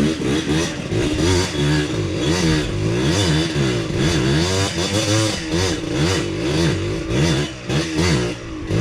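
Honda CRF150L dirt bike's single-cylinder four-stroke engine revving up and down over and over as the throttle is worked, with clattering knocks from riding rough ground.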